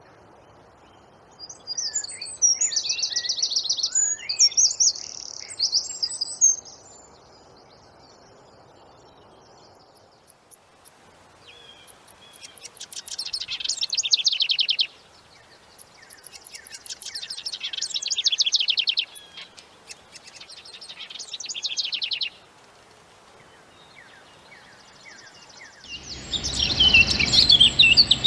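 Wren singing in bursts of very rapid, high trills, each a few seconds long, separated by short pauses. Near the end a louder, denser stretch of chirping starts over a low rumble.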